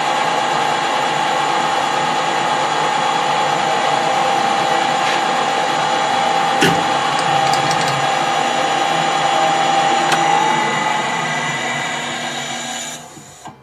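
Metal lathe running with a steady whine while taking a finishing cut to bring a turned part closer to size, with one sharp knock partway through. Near the end the whine stops and the machine winds down to silence.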